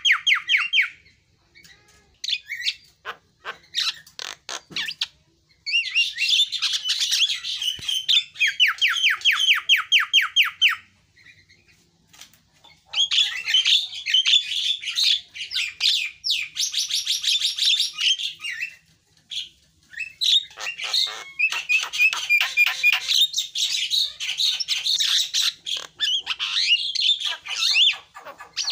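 Javan myna singing: long bursts of varied chattering song packed with fast runs of repeated whistled notes, broken by short pauses, with only a few scattered short calls in the first five seconds.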